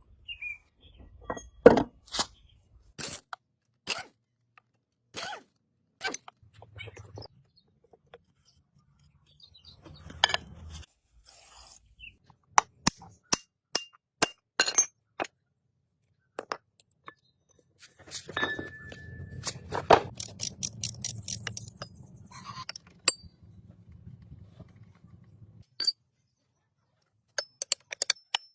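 Irregular metal knocks and clinks of hand tools striking and handling metal parts, with a quicker run of taps over a low hum about two thirds of the way in.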